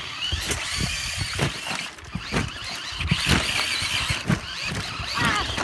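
Electric RC monster truck driving hard on pavement: a high motor-and-gear whine that rises and falls with the throttle, over tyre noise, with scattered knocks as the truck bounces.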